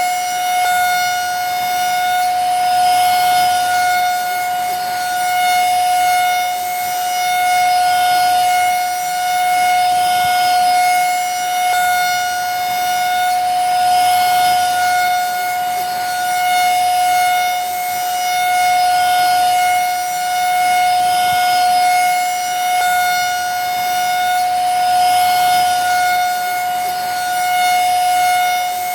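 Vacuum cleaner running steadily: a constant high motor whine over an airflow hiss, swelling slightly about every two seconds.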